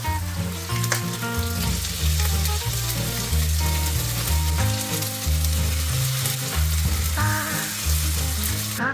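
Zucchini-and-rice fritters sizzling in hot oil in a frying pan, with a spatula and fork scraping and turning them. Background music with a bass line plays underneath.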